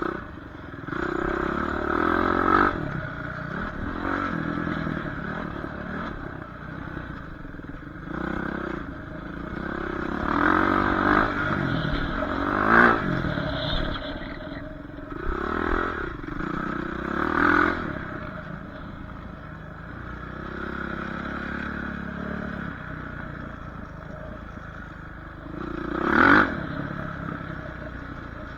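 Dirt bike engines running and revving up and down over and over, with a handful of loud surges as the throttle opens, the strongest near the end.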